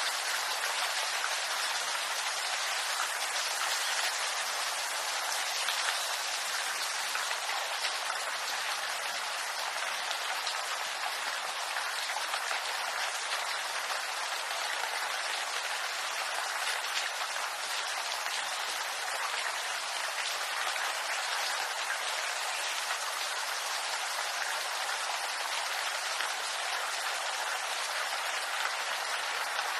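Steady rain falling on bamboo foliage: an even hiss of many drops pattering on leaves.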